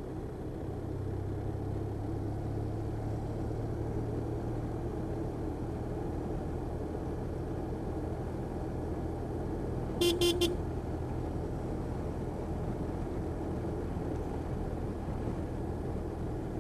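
Motorcycle engine running at a steady cruise with road and wind noise. About ten seconds in, a short horn toot of a few quick pulses sounds.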